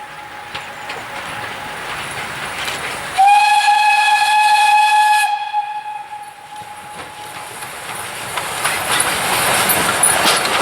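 Steam locomotive whistle (Ol49 class) sounding one steady blast of about two seconds, a single note with its overtones. After it a rush of hissing noise builds up and grows louder toward the end.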